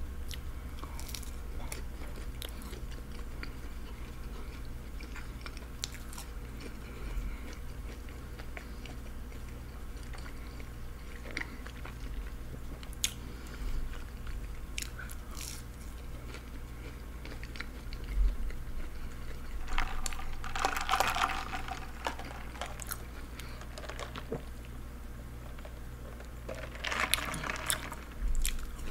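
Close-miked chewing and biting of breaded chicken nuggets, with small wet mouth clicks. Louder crunchy stretches come about two-thirds of the way through and again near the end, over a steady low electrical hum.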